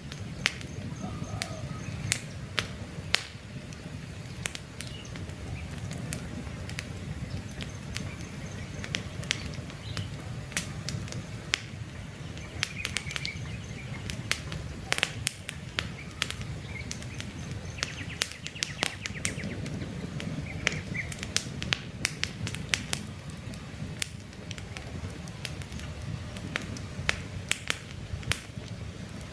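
Wood campfire crackling, with frequent sharp snaps and pops at uneven intervals over a steady low rush of burning flames. Faint short bird chirps come through now and then.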